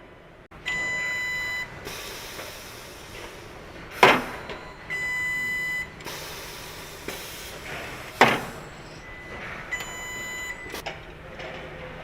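A long electronic beep, about a second each time, sounds three times about four and a half seconds apart. Two sharp, loud hits fall between the beeps and are the loudest sounds, over a low steady background hum.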